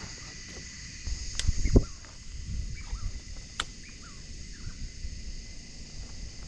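Steady high-pitched drone of insects. About a second and a half in come a sharp click and a couple of low knocks, the loudest sounds here, and another sharp click follows a couple of seconds later.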